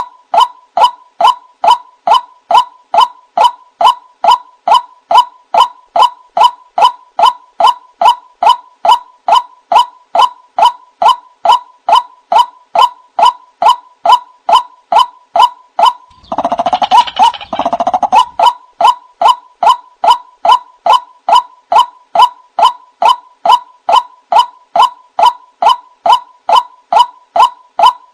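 White-breasted waterhen calling: a steady run of short, identical notes, about two and a half a second, with a louder, harsher call breaking in for a couple of seconds about two-thirds of the way through.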